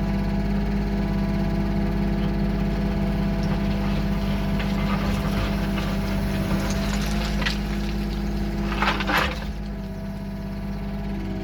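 Diesel engine of a heavy machine running steadily. About nine seconds in there is a brief loud rush of noise, after which the engine is a little quieter.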